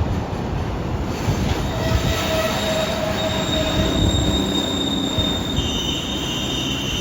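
Freight train behind an EF510 electric locomotive rolling slowly into the station, a steady low rumble with high-pitched wheel squeal coming in about a second in. The squeal shifts to a different pitch near the end.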